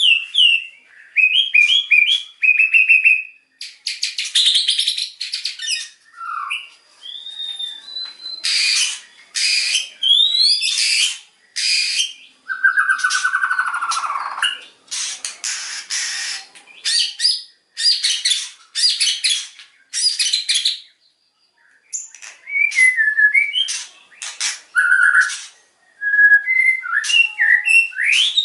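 White-rumped shama singing a loud, varied song. Clear whistled notes and slurs alternate with rapid rattling bursts of about a second or two each, the 'tembakan' (machine-gun) phrases that mark a shama in full song.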